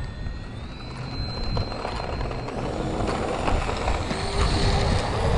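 Electric ducted fan of an FMS F-35 Lightning II 64 mm RC jet spooling up for takeoff, a whine that rises in pitch and grows louder toward the end, over a low rumble.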